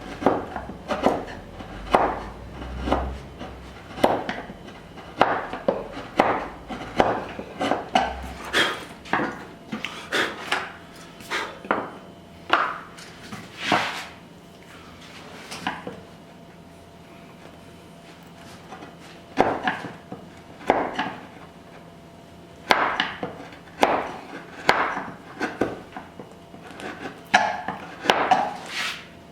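Edge tool cutting wood by hand: short, sharp strokes about once a second, taking waste out of a lap joint, with a pause of a few seconds midway.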